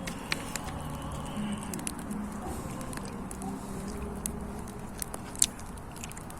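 Campfire of dry leaves and sticks crackling, with scattered sharp pops; the loudest pop comes a little after five seconds in.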